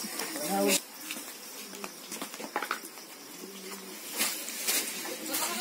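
Insect buzzing with scattered light rustles and knocks as fodder leaves and straw are handled, and a short grunt-like voice sound just under a second in.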